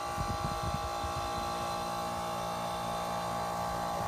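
Outdoor air-conditioner condensing unit (a 2014 Grand Aire) running on start-up: a steady mechanical hum with constant tones above it, which settles from about a second and a half in. The owner takes the unit's cycling on and off for a low ambient kit at work.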